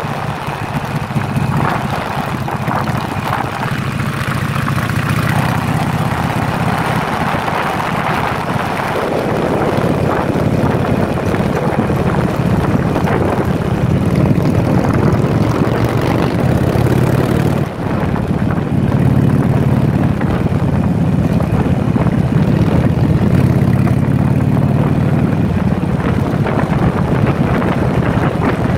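Harley-Davidson Sportster V-twin engine running steadily at riding speed, heard from the bike itself, with wind rushing over the microphone. The level drops briefly once, about two-thirds of the way through.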